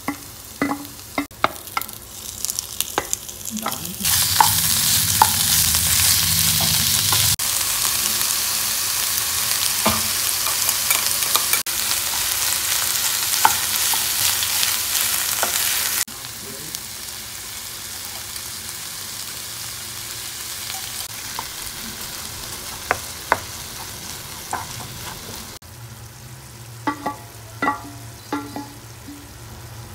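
Food frying in oil in a nonstick pan, stirred with a wooden spatula that knocks against the pan. About four seconds in, a loud sizzle cuts in as chicken pieces fry with onions and spices. It drops suddenly to a quieter sizzle after about sixteen seconds, and there are a few more spatula knocks near the end.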